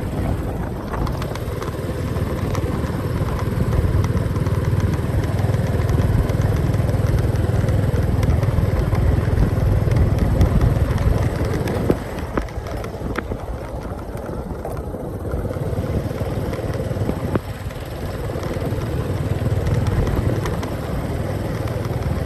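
Motorcycle riding along a road: a steady engine drone with the rush of air and road noise. It swells and eases a little, dropping back briefly about halfway through.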